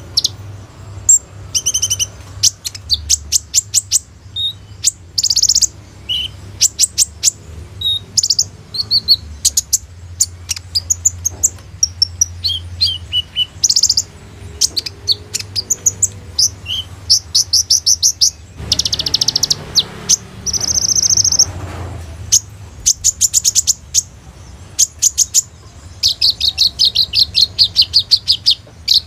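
Kolibri ninja, a sunbird, singing in rapid bursts of high chirps and fast trills, with a harsher buzzing phrase a little past the middle. A steady low hum runs underneath.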